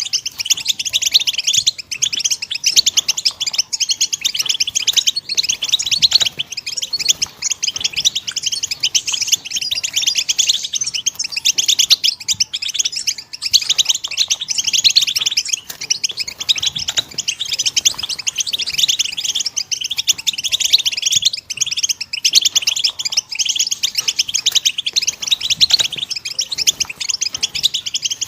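A group of European goldfinches calling and twittering together in a dense, continuous chorus of rapid high chirps.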